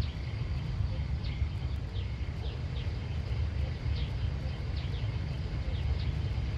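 Outdoor countryside ambience: a steady low rumble, with short high chirps that fall in pitch, repeating about twice a second.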